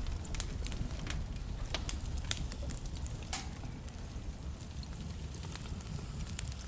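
Wood fire burning in a fireplace: a steady low rumble of flames with irregular crackles and snaps from the logs, and one louder pop a little past halfway.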